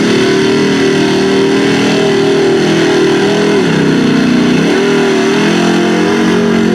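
Lifted Chevy mud truck's engine revving hard and held at high revs, easing off briefly about halfway through, then pulling back up.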